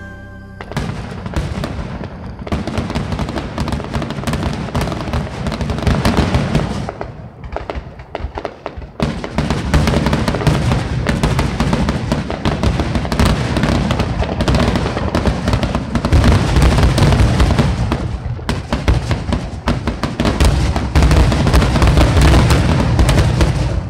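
Fireworks finale: a dense, continuous barrage of aerial shell bursts, bangs and crackling. It eases briefly about eight seconds in, then builds heavier and louder toward the end.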